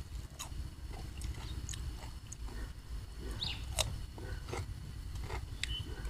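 Close-up chewing and wet mouth smacks of someone eating spicy seafood papaya salad with rice noodles: scattered short clicks over a low steady background rumble.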